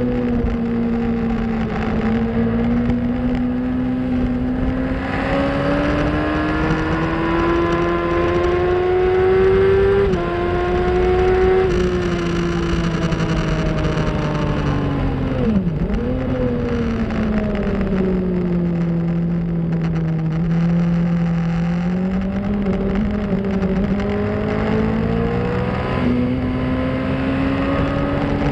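Onboard sound of a 2004 Yamaha R1's inline-four engine at speed on track: its note climbs as the bike accelerates, dropping slightly at upshifts about ten and twelve seconds in. It then falls away as the bike slows, with a brief sharp dip about sixteen seconds in and a step up near the end, over steady wind rush.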